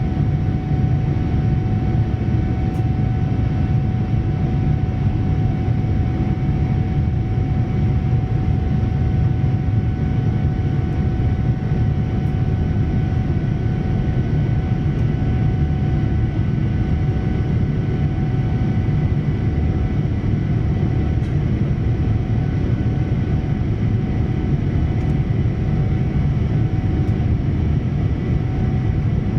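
Steady cabin roar of a Boeing 787-9 in flight, heard from a passenger seat: engine and airflow noise that does not change, with a faint steady tone running above it.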